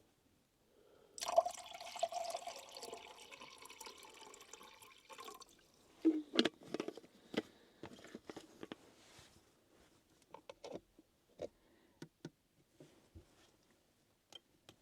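Water being poured into a container for about four seconds, followed by scattered clicks and knocks of camp cookware being handled while coffee is set up.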